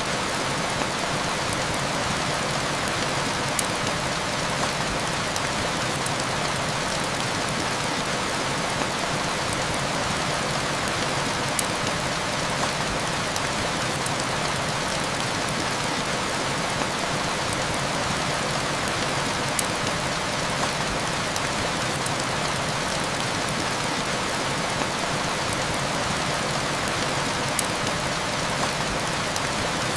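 Steady heavy rain hissing, with a few sharp crackles from a wood fire scattered through it.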